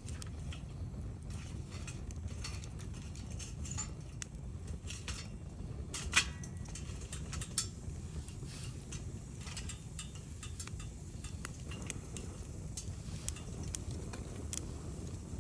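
Wood bonfire crackling, with scattered sharp pops over a steady low rumble of the flames; one louder pop about six seconds in.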